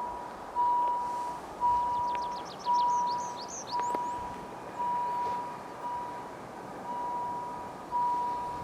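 Finnish level crossing warning bell ringing about once a second, each stroke a single high tone that starts loud and fades. Birds chirp in the background during the first few seconds.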